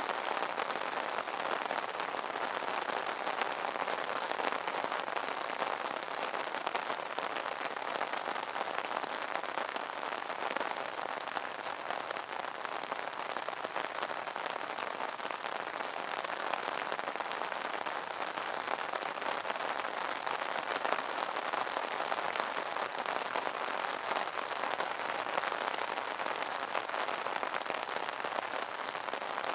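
Steady rain pattering on an umbrella canopy: a dense, even wash of drop impacts with many fine individual taps.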